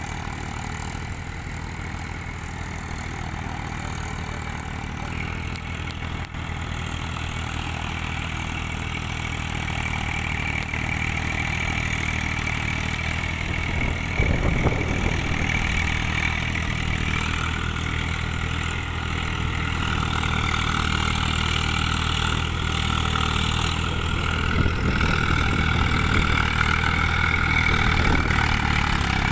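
Eicher 380 tractor's diesel engine running steadily, gradually getting louder, with a short louder rush about halfway through.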